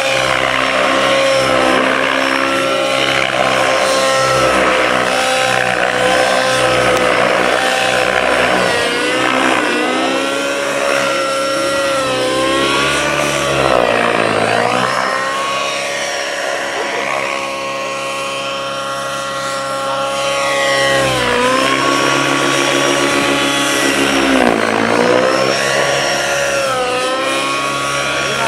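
Radio-controlled model helicopter in flight: its engine and rotor run with a steady pitched whine that drops and swings back up several times as the load changes through manoeuvres.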